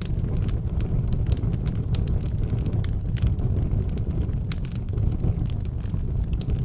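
Wood fire burning in an outdoor fireplace: a steady low roar of flame and air with irregular sharp crackles and pops scattered through.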